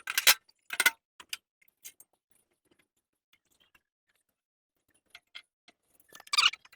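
Sharp metal clicks and clinks as the top cover is fitted onto a walk-behind mower: about four clicks in the first two seconds, a quiet stretch, then a louder clattering rattle near the end.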